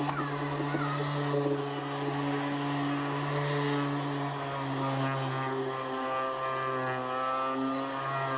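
A small motor running steadily with a constant hum, holding one pitch with only slight wavering.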